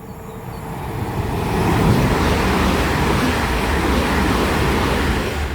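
Class 387 electric multiple unit running into the station, a rushing rumble of wheels on rails that grows louder over the first two seconds and then holds steady.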